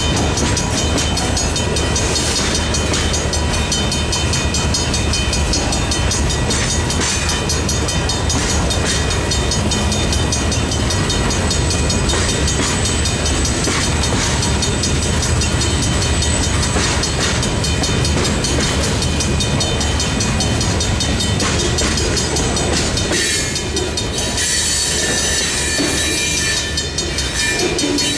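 Freight train of boxcars rolling past a grade crossing, wheels clattering over rail joints, while the crossing's Griswold mechanical bell rings throughout. The low rolling rumble drops away about three-quarters of the way through as the last cars near, leaving higher-pitched rail noise and the bell.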